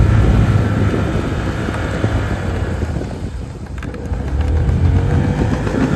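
Quad-bike (ATV) engine running under load, easing off about three and a half seconds in and then picking up again.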